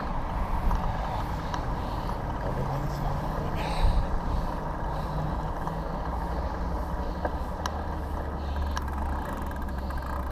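Motor vehicle traffic: a steady low engine and road rumble, with a brief louder burst about four seconds in.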